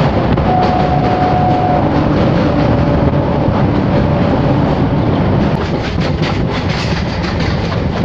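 Electric suburban local train running over a steel truss rail bridge: a steady rumble and rattle of wheels on the track, with a faint steady whine in the first few seconds. From about five seconds in there is sharper clicking and rattling.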